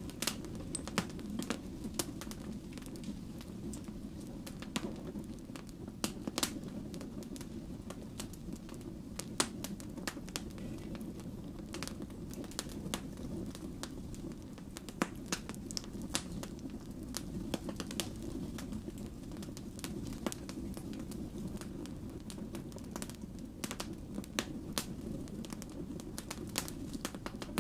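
Wood fire burning, a steady low rush of flame with frequent sharp, irregular pops and crackles from the burning logs.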